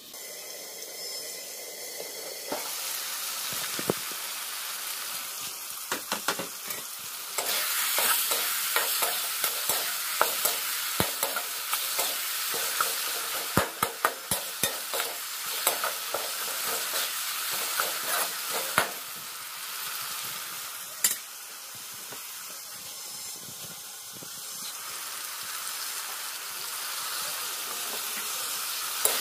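Masala sizzling as it fries in oil in a wide metal pan, the hiss growing louder a couple of seconds in. Through the middle stretch a steel spatula scrapes and clacks against the pan as the masala is stirred.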